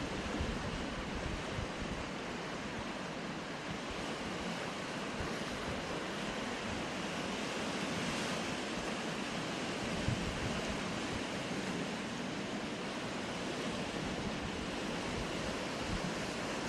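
Sea surf washing steadily against shore rocks, swelling a little about halfway through, with wind buffeting the microphone as a low, uneven rumble.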